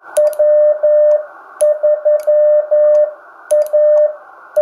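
Morse code sent as a steady beeping tone, keyed in dots and dashes over the hiss of a radio receiver, with faint clicks. The first letters read as W and 3, the start of the ham call sign W3ATB.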